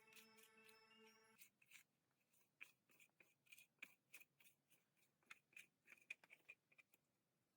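Background music ends about a second and a half in, followed by faint, irregular small clicks, a few a second, that stop near the end.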